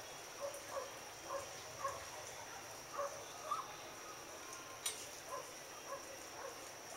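Faint, short animal calls repeated irregularly, about one or two a second, over a steady high-pitched tone, with a single sharp click near the end.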